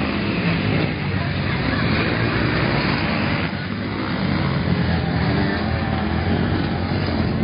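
Motocross dirt bike engines running, a loud, continuous din with no break.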